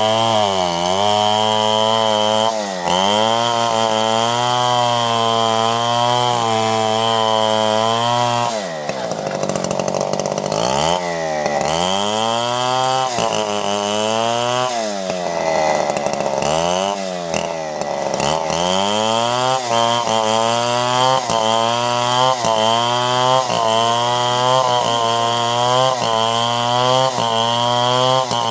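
Chainsaw ripping a log lengthwise into boards. The engine's pitch dips again and again as the chain bites into the wood and then recovers. It bogs down deeply for a couple of seconds around a third of the way in, and near the end the dips come regularly, about once a second.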